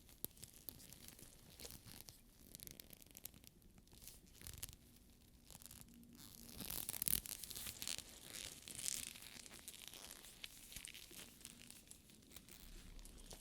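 Fingers handling and rubbing the sticky faux-leather surface of a studded purse, the tacky leather peeling from the fingertips, with many small light clicks. A louder stretch of rubbing comes about seven to nine seconds in.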